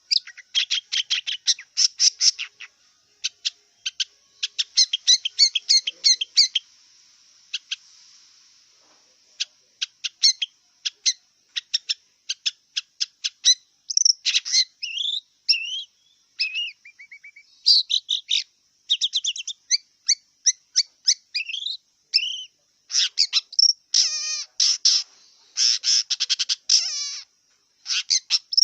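A long-tailed shrike (cendet) singing: quick runs of sharp, high chirps and short whistles, some sliding in pitch, in bursts with brief pauses between them.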